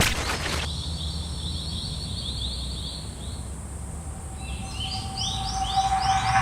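Birds chirping in a quick run of short rising calls, about four a second. A second, higher chirping voice joins about four seconds in, along with a steady tone that grows louder. A low hum runs underneath.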